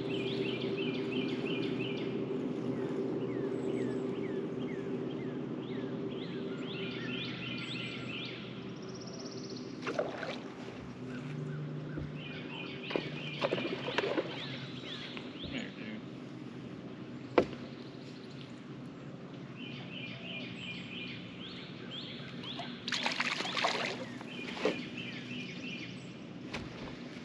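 Songbirds repeating a short trilled phrase every few seconds, with other chirps between. Under them is a steady low hum that fades out after about seven seconds, and a few sharp clicks and knocks come later.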